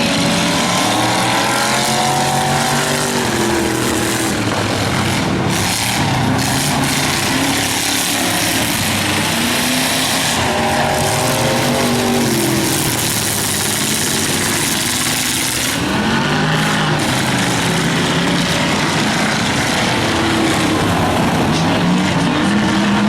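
Several demo race cars' engines running hard on an oval track, their pitches repeatedly rising and falling over one another as the cars accelerate, lift and pass.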